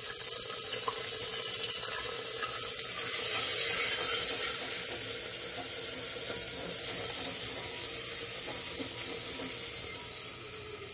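Garlic-ginger paste and onions sizzling hard in hot ghee in a clay handi as they are stirred with a wooden spoon: a steady hiss like running water, loudest about three or four seconds in and easing slowly toward the end.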